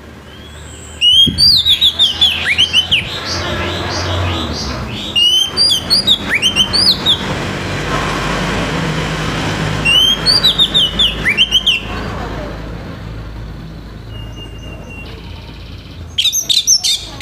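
Orange-headed thrush in full loud song: bursts of rapid, falling whistled notes in four phrases a few seconds apart, over a steady background rush.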